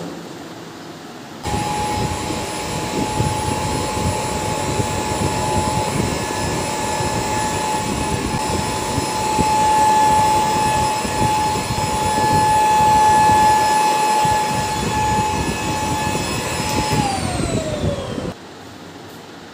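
A high-speed electric motor switches on about a second and a half in and runs with a steady high whine over a rough rushing noise, then is switched off near the end, its whine falling in pitch as it spins down.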